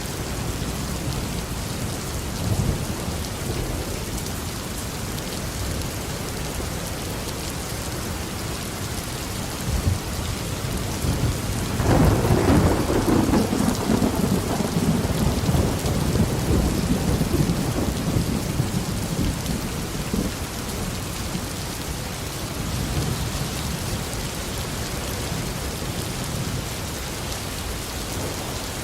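Steady heavy tropical rain falling, with a clap of thunder breaking about twelve seconds in and rolling away over several seconds.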